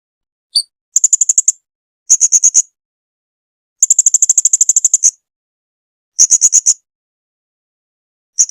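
Blue-crowned hanging parrot (serindit) giving runs of rapid, high-pitched chattering notes, about ten a second. A short note comes first, then runs of about half a second each, with one longer run of over a second near the middle and gaps of silence between them.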